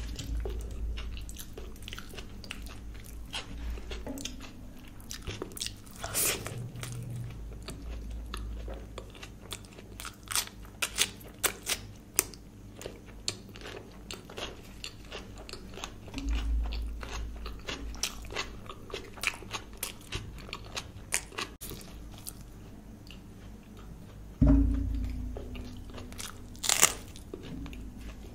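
Close-miked eating of puri with curry: a run of wet chewing, biting and mouth clicks. A few louder low thumps come about halfway through and again near the end.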